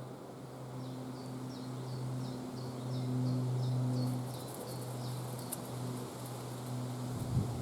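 An insect buzzing close by, waxing and waning. Over it, a bird gives a quick run of about a dozen high chirps, about three a second, from about a second in to about four and a half seconds in. A low bump comes near the end.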